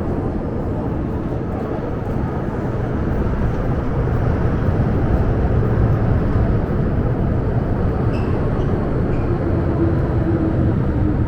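MTR M-train electric multiple unit running into an underground station platform, a steady rumble of wheels on rail that builds over the first few seconds. A low whine comes in near the end as the train slows.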